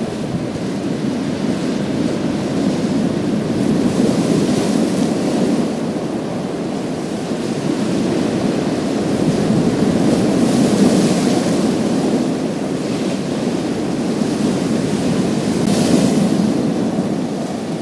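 Waves breaking on a pebble beach: a steady surf rumble with a hiss of water washing over the stones that swells three times.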